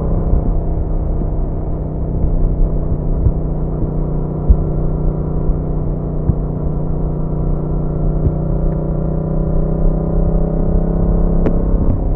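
Yamaha MT-07's 689 cc parallel-twin engine and exhaust running at a steady pitch while riding, with low road and wind noise underneath. There is one sharp click near the end.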